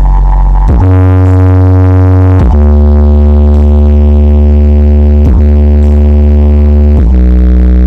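SPL Audio Venturer speaker box with TPX 3000 drivers playing loud, long-held synthesizer bass notes. The pitch steps to a new note about four times.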